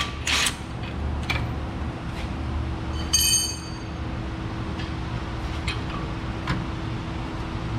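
Metal tools and suspension parts being handled: a sharp clank just after the start and a ringing metallic clink about three seconds in, with a few faint clicks later, over a steady low hum.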